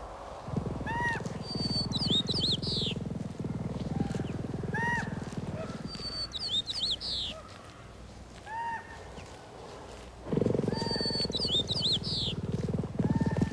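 Birds calling in a repeating pattern: short arched whistles about every two seconds, and about every four and a half seconds a quick burst of high chirps ending in a down-slurred note. Underneath is a low, rough, pulsing rumble that swells loudest about ten seconds in and again near the end.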